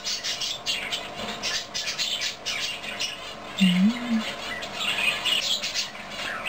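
Small birds chirping and chattering in quick irregular bursts, with a brief low wavering hum about halfway through.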